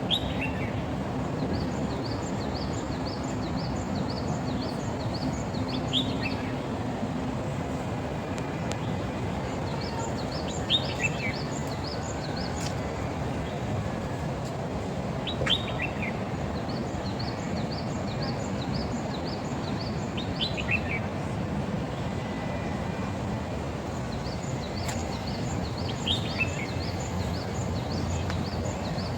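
Songbirds calling outdoors: runs of quick high chirps and, every few seconds, a short call that slides downward, over a steady background rumble of outdoor noise.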